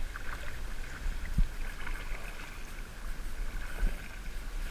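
Kayak paddling: water swishing and dripping from the paddle strokes, with a few faint knocks and a steady low rumble.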